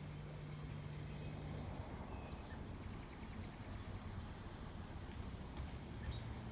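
A passing motor vehicle's engine, a low steady hum and rumble, with a few short, faint bird chirps over it.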